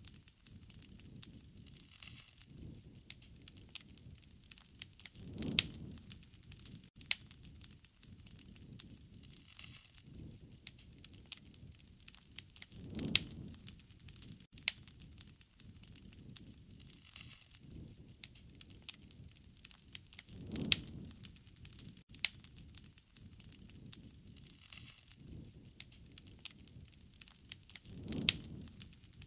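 Campfire crackling, with sharp snaps and pops throughout and a low soft rush of flame that swells and fades about every seven to eight seconds.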